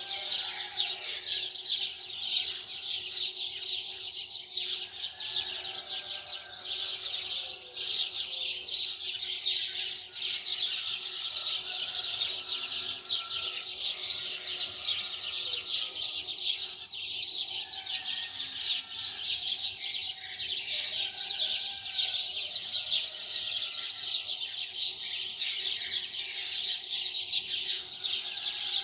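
Many birds chirping densely and continuously, with a thin steady low tone underneath.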